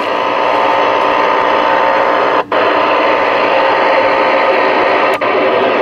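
Stryker SR-955HPC radio's speaker on receive, hissing with steady static ("a bunch of noise"). The noise cuts out for an instant twice, about two and a half and five seconds in.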